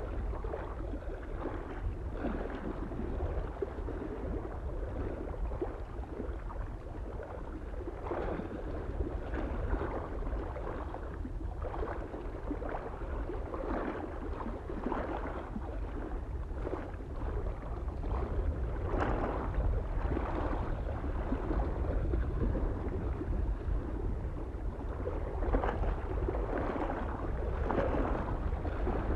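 Small waves lapping and splashing irregularly against a lake shore, one after another every second or two, over a steady low rumble of wind on the microphone.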